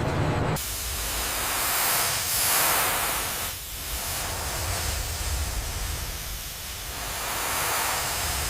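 A steady rushing hiss that starts abruptly about half a second in, swells and dips a few times, then cuts off at the end.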